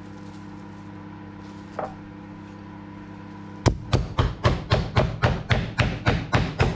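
A steady low hum. Shortly before the end, a run of heavy, evenly spaced thuds begins, about four a second.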